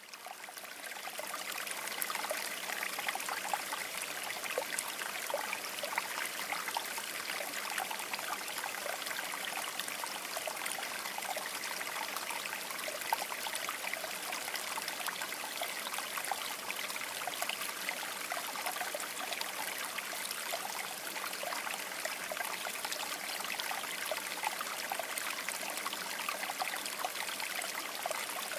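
Inland river babbling: a steady rush of flowing water with fine splashing, fading in over the first second or two.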